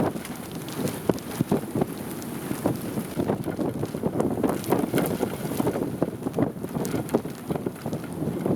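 Strong wind buffeting the microphone in uneven gusts, a rumbling rush broken by many sharp thumps.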